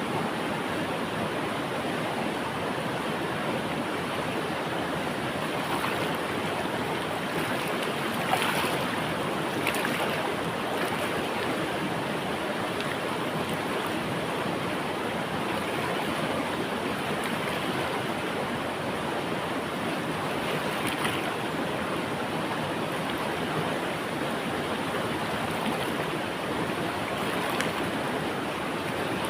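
River water flowing in a steady rush, with a few brief splashes.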